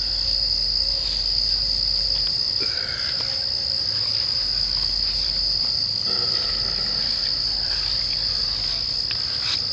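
A chorus of night-singing insects: one steady, continuous high-pitched trill with no breaks.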